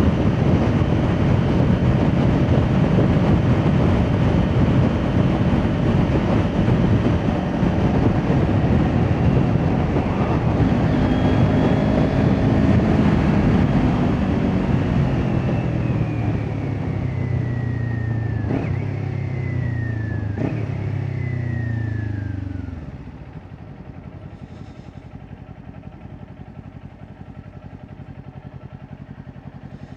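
Kawasaki Ninja 400 parallel-twin with an Akrapovic exhaust under way with heavy wind noise, then slowing on engine braking: its pitch falls, jumps back up with two clicking downshifts, and falls again. Near the end the motorcycle stops and the engine settles to a quiet idle.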